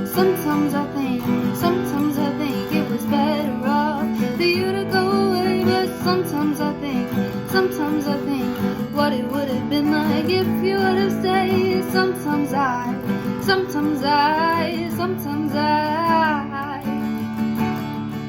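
A song: acoustic guitar playing, with a woman singing over it.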